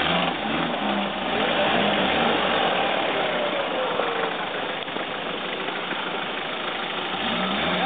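Engine of a roll-caged off-road 4x4 running steadily as the vehicle crawls up a steep, rocky dirt slope.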